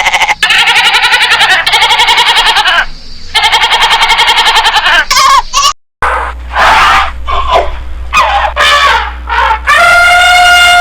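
Goats bleating repeatedly in loud, quavering calls. About six seconds in, the sound cuts to another recording with a low hum under it, with shorter calls and then one long bleat that falls in pitch near the end.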